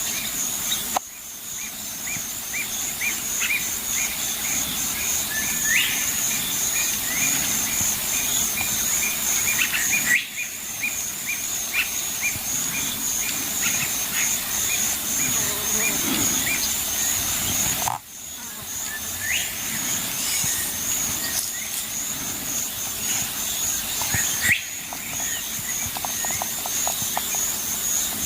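Outdoor chorus of insects trilling in a steady, fast, even pulse at a high pitch, with scattered bird chirps and short rising calls. The sound breaks off abruptly for a moment four times.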